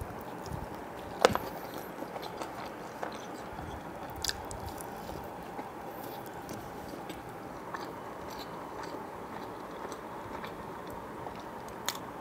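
Close-miked biting and chewing of a thick-crusted pizza slice, with one sharp bite about a second in, then steady wet chewing with scattered small mouth clicks.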